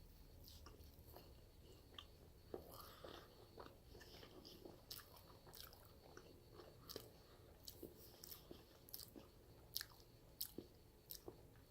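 Faint close-up chewing of a soft marshmallow: quiet wet mouth clicks and smacks, a few louder ones in the second half, over a low room hum.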